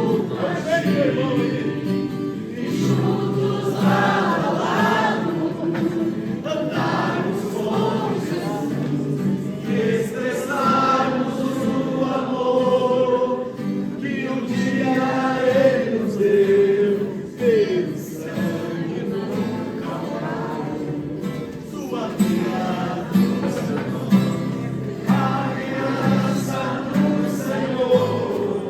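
Christian worship music: a choir of voices singing over instrumental accompaniment.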